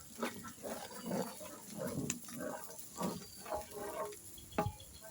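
Hens clucking in a run of short calls, with two sharp knocks, one about two seconds in and a louder one near the end.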